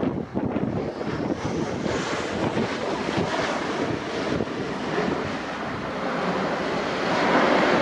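Strong wind buffeting the camera microphone: a rough, rushing noise that swells louder near the end.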